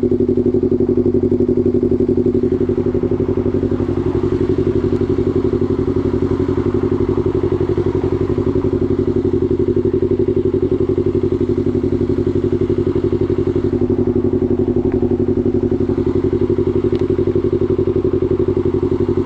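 Yamaha R3's parallel-twin engine running at a steady, even speed, with no revving up or down.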